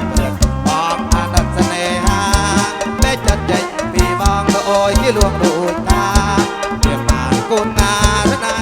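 Instrumental passage of a live kantrum band through a loud PA: a steady, driving drum beat with a wavering melodic lead over it.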